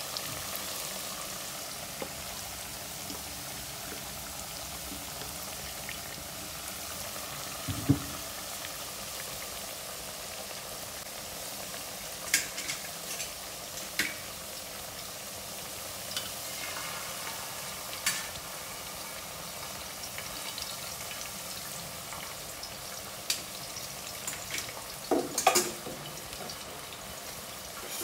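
Potatoes deep-frying in a pot of hot oil, a steady sizzle throughout. A few sharp knocks and clatters break in now and then, with the loudest cluster near the end.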